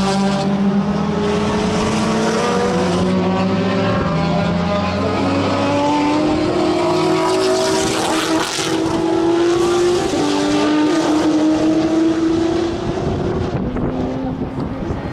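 Race car engine running hard on the circuit, its pitch climbing steadily for several seconds under acceleration, then dropping sharply near the end as the revs fall.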